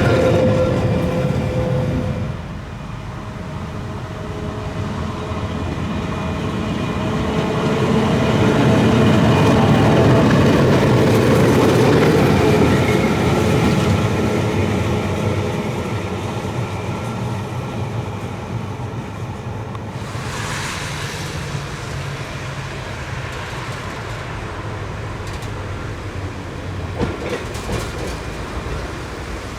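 Trieste–Opicina tram running on its rails, a steady rumble with wheels clattering over the track that swells to its loudest about ten seconds in. A short hiss comes about twenty seconds in.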